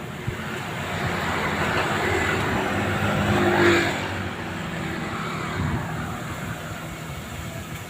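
A road vehicle passing by: its noise swells to a peak a little under four seconds in, then fades away.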